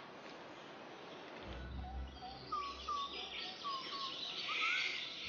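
Forest ambience with a series of short, quick whistled bird chirps, some rising and some falling, over a faint low rumble. A hissing sound swells near the end.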